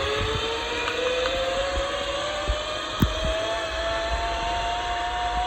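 Zipline trolley pulleys whining along the steel cable, the pitch rising slowly and steadily as the rider picks up speed, over a rush of wind. A single sharp click comes about three seconds in.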